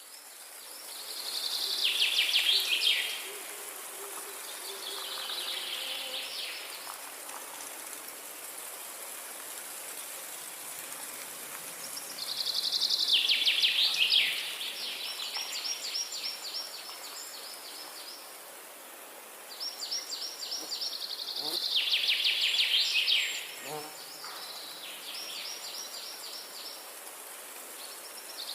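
A songbird singing fast trilled phrases that fall in pitch, each lasting two to three seconds and repeated every few seconds. A steady high hiss of forest ambience runs underneath.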